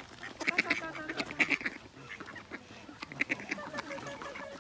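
A group of ducks quacking, many short calls overlapping one after another, as they crowd in for thrown food.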